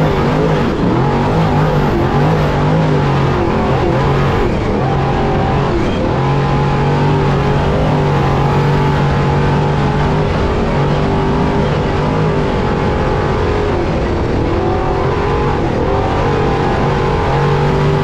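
Off-road Trophy Truck race engine running hard, its pitch dipping and climbing several times as the throttle comes off and goes back on, over a dense rushing rumble.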